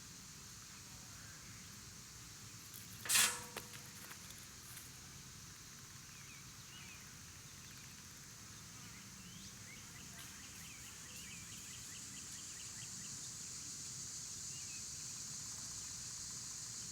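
Outdoor background of a steady high hiss that grows slightly louder, with faint scattered chirps. A single sharp knock sounds about three seconds in, followed by a smaller one.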